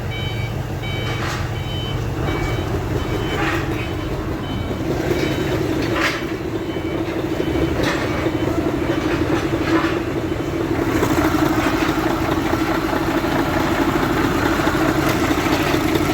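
Mercedes-Benz Actros six-cylinder diesel truck engine running with the cab tilted, carrying the abnormal noise the mechanic is chasing, which he links to the number-3 diesel unit pump. A few short dashboard warning beeps sound at the start, and the engine sound grows louder and brighter about eleven seconds in.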